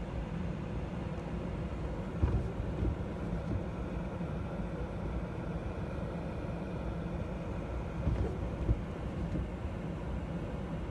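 Car engine idling, heard from inside the cabin as a steady low rumble, with a few dull low thumps about two seconds in and again around eight seconds in.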